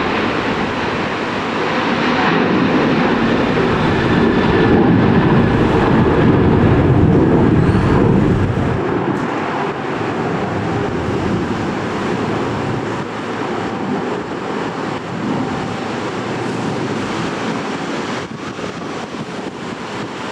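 Jet airliner's engines during takeoff: the noise builds to its loudest from about four to eight seconds in, then eases to a lower, steady level as the aircraft climbs away. Strong wind buffets the microphone throughout.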